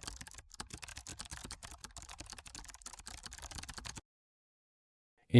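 Computer keyboard typing: rapid, irregular key clicks for about four seconds, stopping abruptly.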